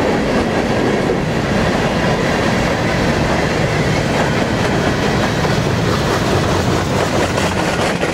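The last empty covered hopper cars of a freight grain train rolling past: a steady rumble with the wheels clattering over the rails.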